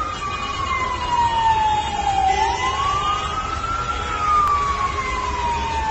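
A siren wailing slowly. Its pitch falls for about two seconds, rises again over about a second and a half, then falls once more, over a low steady rumble.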